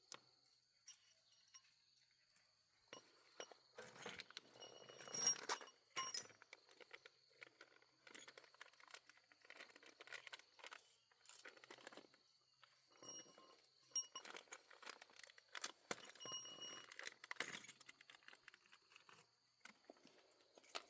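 Faint, irregular clinking and clattering of small hard objects being handled, in clusters, over a faint steady high-pitched tone.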